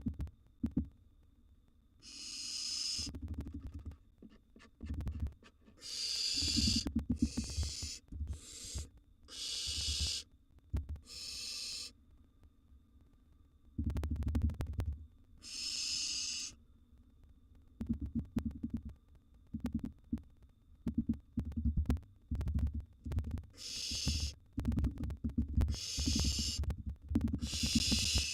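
Barn owl nestlings giving their hissing begging calls: rasping hisses about a second long, repeated every one to two seconds with a long gap in the middle. Under them, frequent low thumps and scuffling of the birds moving in the wooden nest box.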